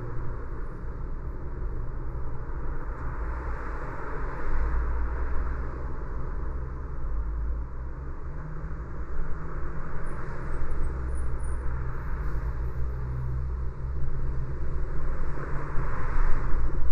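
A car driving on a city street: steady low rumble of engine and road with tyre noise. The noise swells twice, about four seconds in and near the end.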